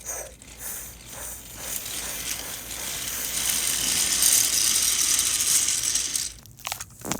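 Toy train and trucks running along a toy track with a mechanical rattling whir. It builds up about two seconds in and stops about six seconds in, followed by a few sharp clicks.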